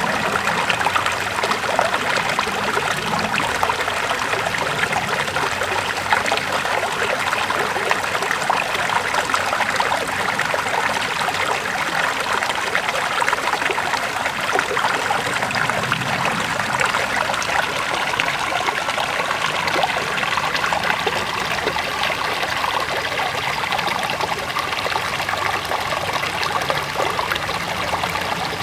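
River water flowing and splashing steadily over stones, a constant rushing and trickling.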